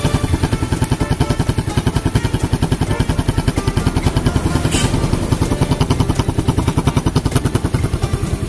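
Small single-cylinder motorcycle engine, Yamaha Jupiter-type, idling steadily, its exhaust giving an even train of firing pulses at about nine a second.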